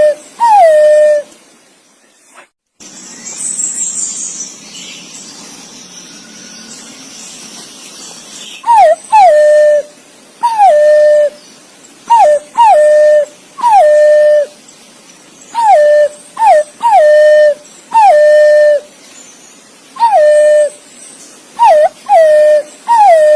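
Green pigeon (punai) calling: clear whistled notes in pairs, each note swooping up and then falling to a long held tone. After the first pair there is a pause of about seven seconds with only faint hiss, then the pairs come steadily, one every couple of seconds.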